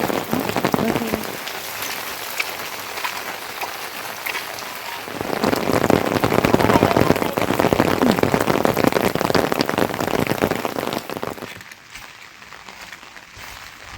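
Heavy rain pattering on a surface, a dense hiss of countless drops that grows louder about five seconds in, then drops away sharply near the end.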